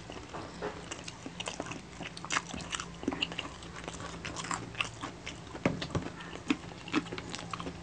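Close-up chewing and mouth sounds of people eating crispy pata (deep-fried pork knuckle) meat: irregular wet clicks, smacks and small crunches. A low steady hum runs underneath.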